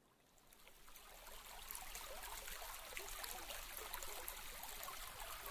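Wood fire crackling inside a wood stove: dense small crackles and occasional sharper pops from burning birch-bark kindling and wood, rising from silence over the first couple of seconds, then steady.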